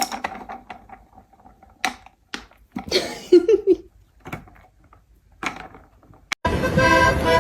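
A few scattered knocks and taps in a small room, with a short pitched squeak about three seconds in; music starts about a second before the end.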